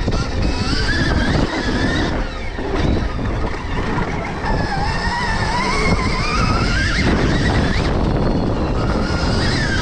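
Stark Varg electric motocross bike's motor whining under a rough, steady rumble of riding, its pitch rising and falling with the throttle and climbing steadily about halfway through.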